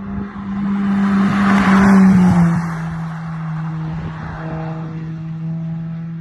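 Honda Civic EP2's four-cylinder engine and exhaust as the car passes by, the rush of sound building to a peak about two seconds in. The engine note drops slightly in pitch as the car goes past, then holds steady while fading.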